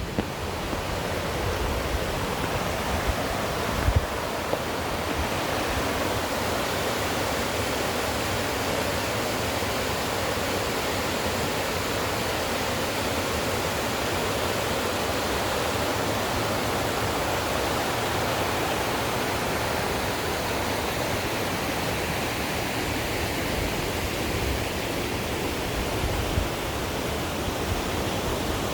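Mountain stream rushing over rapids and small waterfalls, a steady even rush of water, with a brief knock about four seconds in.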